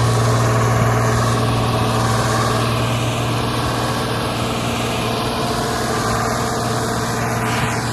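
Small front-end loader's diesel engine running steadily at an even speed.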